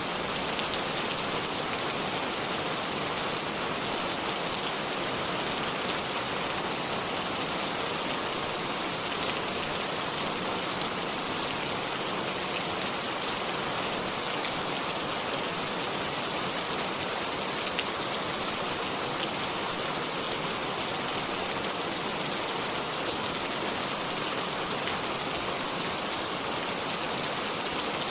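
Steady rainfall, a dense even patter of drops striking surfaces, with occasional sharper single drop ticks.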